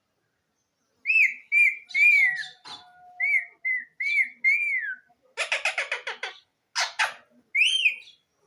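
Indian ringneck parakeet whistling and chattering: a string of short arched whistled notes, then a fast rattling run, a single harsh screech and one last whistled note.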